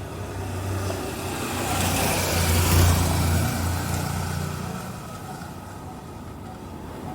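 A road vehicle passing by, its noise building to a peak about three seconds in and then fading, over a steady low hum.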